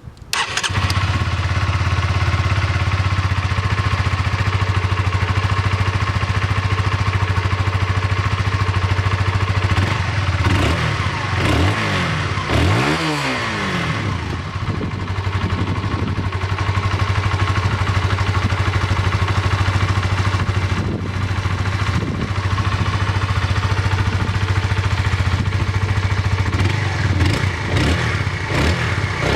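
2011 Honda CBR125R's single-cylinder four-stroke engine on its stock exhaust, starting about half a second in and then idling steadily. There are a few brief swoops in pitch near the middle.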